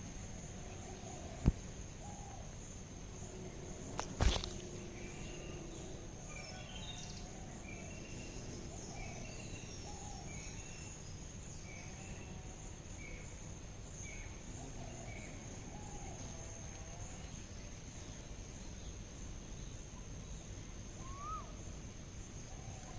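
Outdoor garden ambience: steady high insect trilling, with scattered short bird calls and a row of chirps in the middle. Two sharp knocks, the louder about four seconds in.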